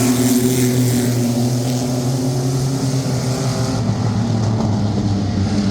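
A field of sport trucks (mini pickup race trucks) running together under full throttle just after the green flag, their engines blending into one steady, loud drone.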